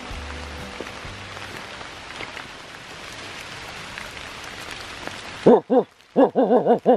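Steady rain pattering for about five seconds, then the rain cuts out abruptly and a dog barks about eight times in quick short yaps, a dubbed-in barking effect.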